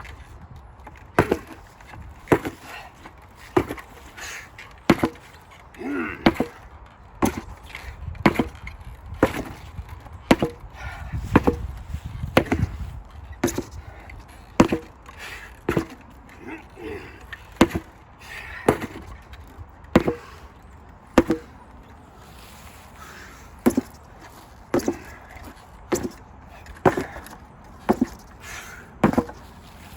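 An 8 lb sledgehammer striking a target over and over in drills, sharp hits about once a second with a short pause a little past the middle.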